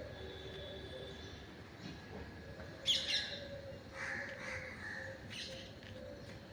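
Birds calling outdoors: a few short, sharp chirping calls that sweep downward, the loudest about three seconds in.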